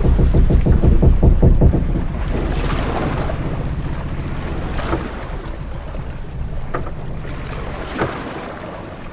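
Sailing-ship ambience: wooden ship creaking over wind and sea wash, with a loud low rapid creak for the first two seconds, then the noise fading, broken by a few short sharp creaks and knocks.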